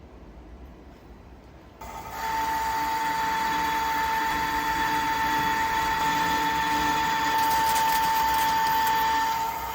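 Metal lathe running, starting up about two seconds in with a steady high whine over a hiss, then winding down near the end.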